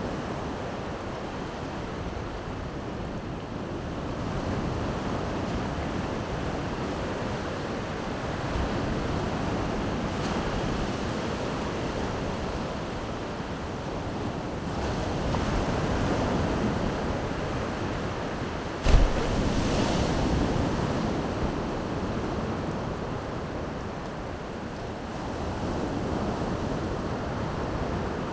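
Baltic Sea surf washing onto the shore in slow swells that rise and fall, with wind on the microphone. A single sharp knock comes about two-thirds of the way through.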